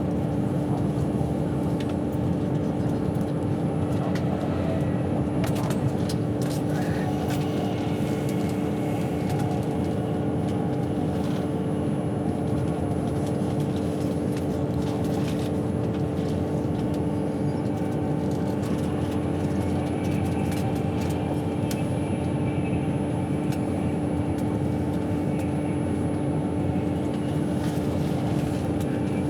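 Steady running drone of a passenger train heard from inside the carriage: a constant low rumble with a steady hum, and scattered faint clicks.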